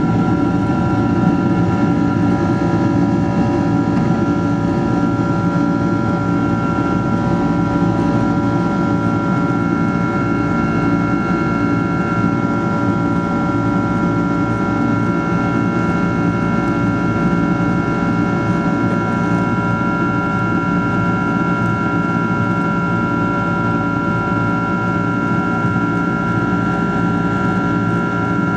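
Boeing 767-300ER's Rolls-Royce RB211 turbofan engines at steady high take-off thrust, heard inside the passenger cabin: a constant low roar with several steady whining tones above it, the highest the loudest.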